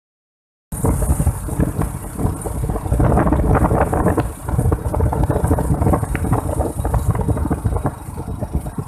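Moving vehicle's engine and road noise, a dense low rumble with wind buffeting the microphone; it starts abruptly just under a second in after a moment of dead silence.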